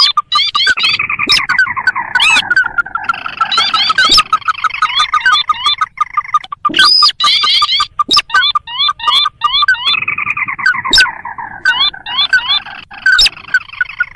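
Lure-call recording of ruddy-breasted crakes (sintar): rapid, continuous trains of short repeated call notes, several birds or layers overlapping, broken by frequent sharp clicks.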